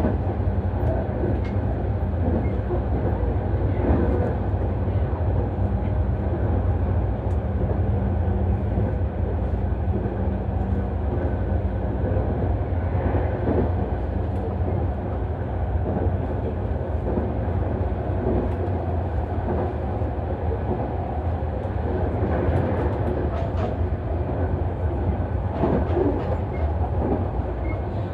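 Nankai Main Line express train running at speed, heard inside the passenger car: a steady rumble of wheels on rails, broken by a few sharp clacks.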